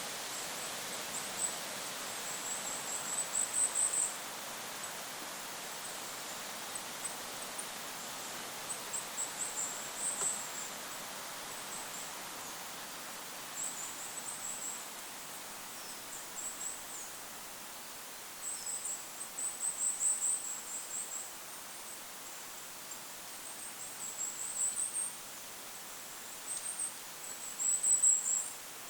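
Goldcrest singing: short, very high-pitched phrases of rapid thin notes, repeated every few seconds, the loudest near the end, over a steady hiss of wind.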